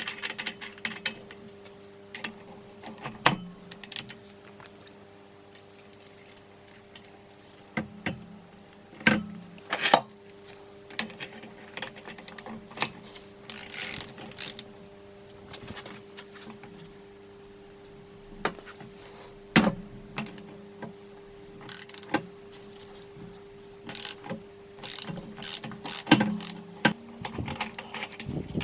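Hand tools and metal engine parts clicking and clinking during disassembly of a Honda CB450 engine, in short scattered bursts with pauses between them, the longest just before halfway.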